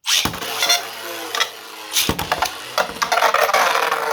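Two 3D-printed Beyblade tops launched and spinning in a plastic stadium, a scraping, rattling hiss with a few sharp knocks as they skid across the floor and hit the walls.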